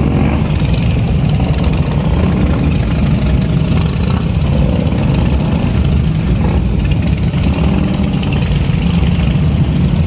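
Several motorcycle engines running steadily at low speed as the bikes move slowly through a rock tunnel.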